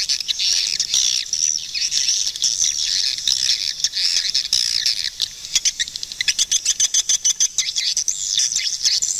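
Swiftlets calling: a dense, unbroken chatter of high chirps from many birds, with a fast run of sharp clicks from about five and a half to nine seconds in.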